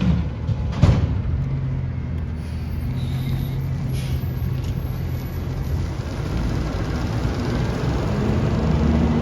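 Garbage truck engine running steadily, with two sharp bangs, one at the start and one about a second in, and the engine note getting a little louder near the end.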